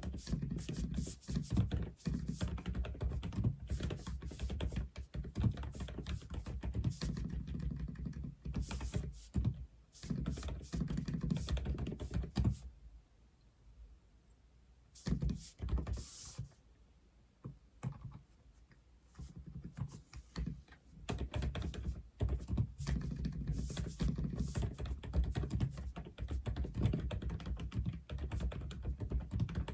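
Typing on an Aula F87 mechanical keyboard: a quick, dense run of keystrokes with much of their weight down low. The typing breaks off for a couple of seconds about halfway through, comes back as a few scattered key presses, then picks up its steady pace again.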